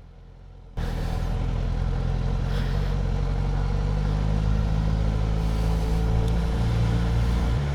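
Motorcycle engine running under way with wind and road rush, starting abruptly about a second in; the engine note shifts near the end.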